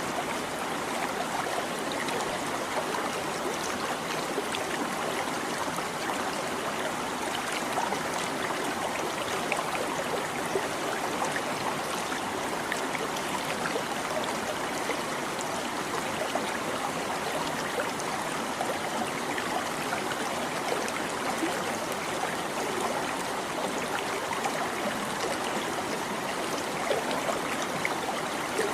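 A shallow stream babbling and trickling steadily over rocks, with many small splashes and gurgles.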